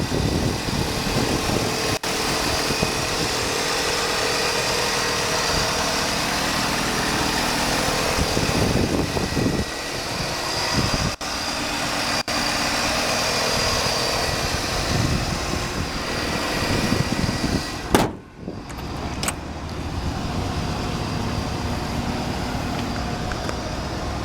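A 1983 Buick Riviera's 5-litre V8 idling steadily. A single sharp knock comes about eighteen seconds in.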